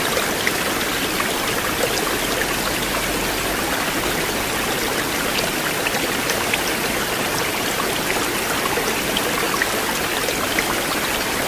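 River water flowing steadily, an even rushing with small splashes and drips scattered through it.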